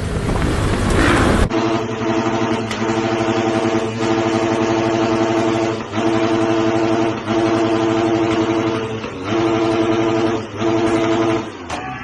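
A dirt bike engine held at high revs with a steady note, cut off briefly several times by throttle chops, about every one to two seconds. Before that, for the first second and a half, there is a rougher rushing engine-and-wind noise.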